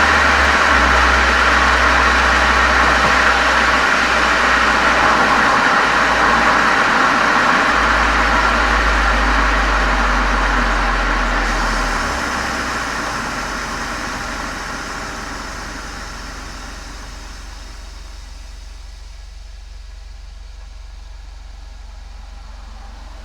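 Volkswagen Golf 7 GTI's 2.0-litre turbo four-cylinder running through a Cox aftermarket muffler and chamber, picked up by a microphone outside at the rear: a steady low exhaust drone under a loud rushing noise. From about halfway the whole sound dies down gradually over several seconds, then stays lower.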